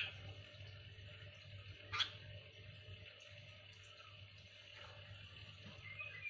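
Sooty-headed bulbul giving two short sharp call notes, one at the start and one about two seconds in, then falling silent over a faint steady hum and hiss.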